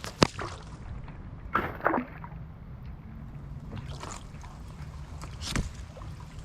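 Kayak paddling: a sharp knock just after the start, then splashing and dripping from paddle strokes about two seconds in and again near the end, over a steady low rumble.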